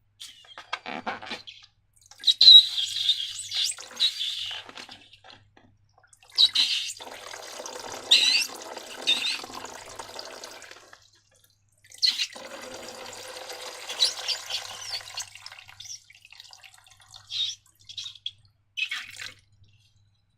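Wet liquid slime being squeezed and poured, in several separate stretches of a few seconds each, then a few short squelches near the end.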